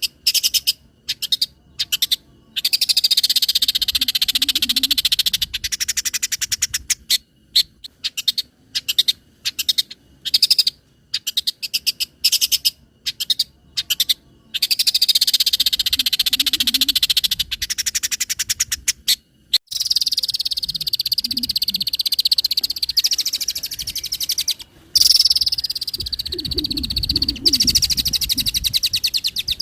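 Long-tailed shrike (cendet) singing a fast, scratchy chattering song of rapid repeated notes, in short clipped calls and long unbroken runs of several seconds.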